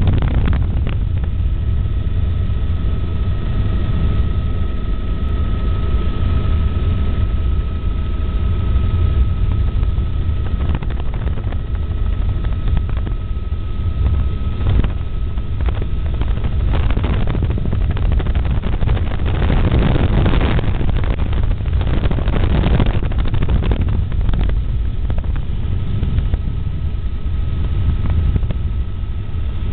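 Helicopter in flight: the steady, loud drone of its engine and rotor with a thin, high whine over it, turning rougher and gustier for several seconds past the middle.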